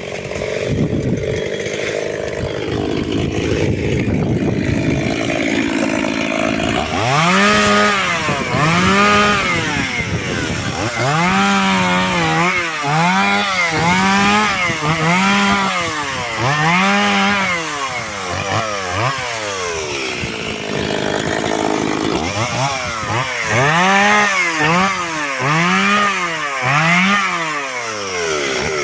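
Chainsaw cutting through wood. At first the engine runs steadily under load; from about a quarter of the way in its pitch rises and falls about once a second as the saw works through the cut, with a short pause about two-thirds of the way through.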